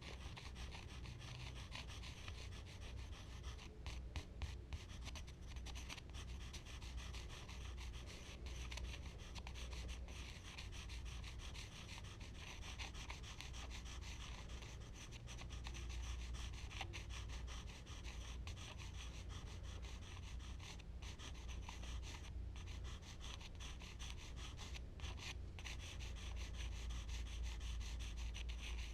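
Charcoal rubbing and scratching across smooth Bristol paper in continuous strokes, over a low steady hum.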